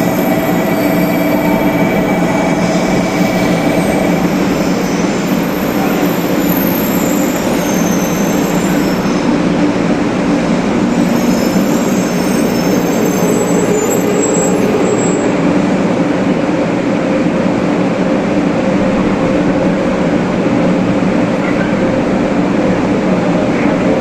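500 series Shinkansen train running on the Sanyo Shinkansen line: a loud, steady rumble, with a faint high whine through the first half.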